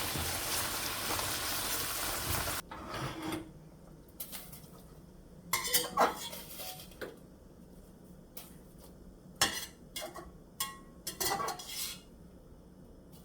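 A steady hiss cuts off abruptly about two and a half seconds in. It is followed by scattered clinks and scrapes of kitchen utensils against cookware, the busiest around six seconds and again between nine and twelve seconds in.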